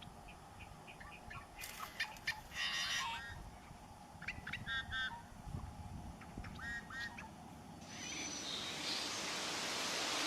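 Birds calling: clusters of short, harsh, honking calls. From about eight seconds in, a steady rushing noise grows louder.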